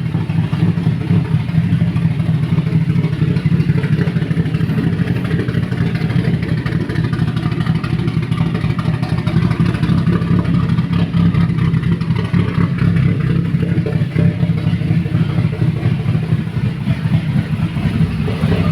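Turbocharged car engine running loudly at a fairly steady, low pitch, without clear rises or falls in revs.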